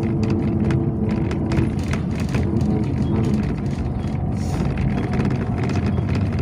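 Inside a moving Yutong ZK6118HGA city bus: steady engine and road rumble with frequent small rattles and knocks from the body.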